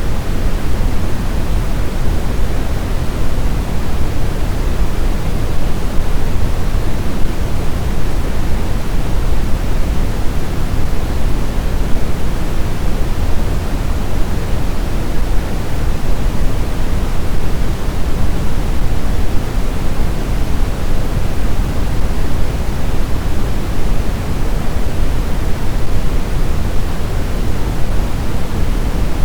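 Blizzard wind: a steady, even rush of noise, heaviest in the low end, with no distinct gusts or howls.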